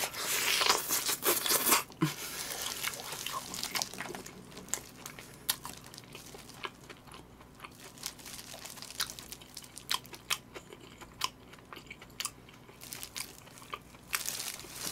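A person biting into crispy fried chicken and chewing it close to the microphone. Dense crunching for the first two seconds, then quieter chewing with scattered sharp clicks, growing louder again near the end.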